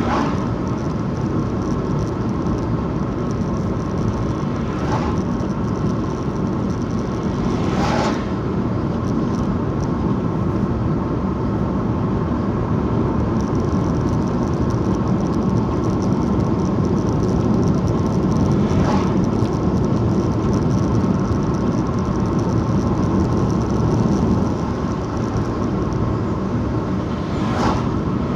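Car driving along a road: the steady rumble of the engine and tyres, with a few brief knocks scattered through.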